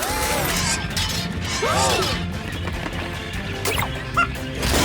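Cartoon soundtrack: background music with crashing, clattering sound effects, a couple of sharp knocks near the end, and short arched cries early on, likely from the machine running amok.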